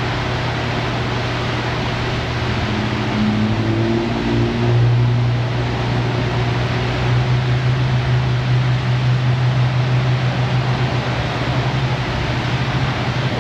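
A machine running steadily: a low hum over a rushing noise, the hum growing stronger about four and a half seconds in.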